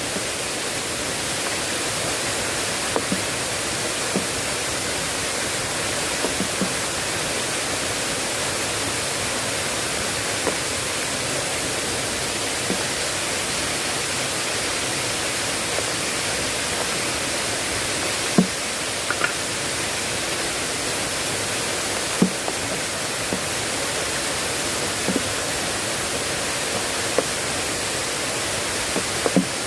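Heavy rain falling steadily, an even rushing hiss, with scattered sharp taps of single drops, a couple of them louder.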